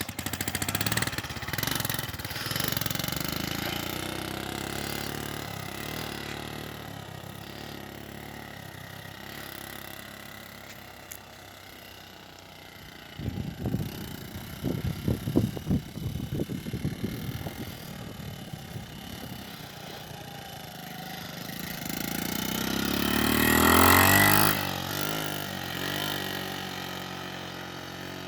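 Motorcycle engine fading away, then running in uneven, stuttering bursts in the middle. It then grows louder to a peak a few seconds before the end and drops off quickly, as the bike comes close and passes.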